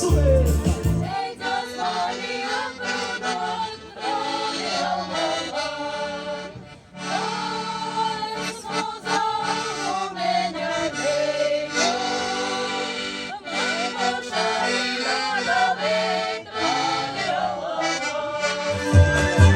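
Live instrumental folk music: a melody played over sustained chords. The bass and beat drop out about a second in and come back near the end.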